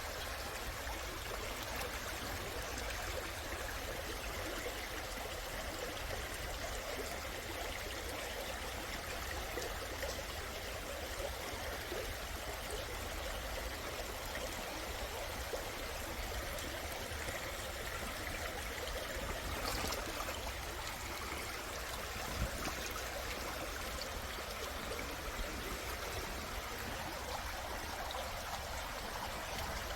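Mountain stream flowing over rocks: a steady rushing and trickling of water, with a few small splashes standing out.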